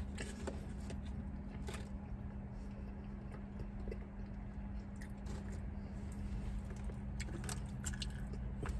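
A person chewing a mouthful of French fries, with scattered small clicks and rustles, over a steady low hum.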